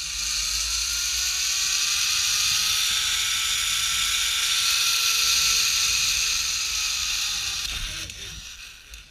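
Zip-line trolley pulleys running along a steel cable: a steady whirring whine whose pitch rises slowly and then sinks a little, fading out about eight and a half seconds in.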